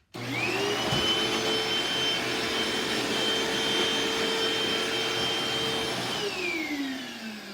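Eureka Optima vacuum cleaner switched on, its motor spinning up quickly to a steady high whine. It runs for about six seconds, then is switched off and winds down with a falling pitch near the end.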